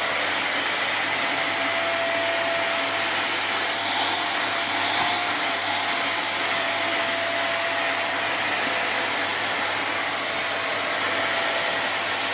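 BBK upright vacuum cleaner running steadily, a rush of air with a steady high whine from its motor.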